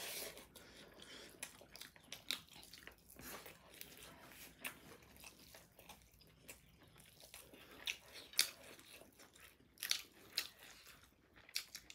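Mouth sounds of people chewing biryani rice and buffalo meat: quiet, scattered wet clicks and smacks, a few louder ones near the end.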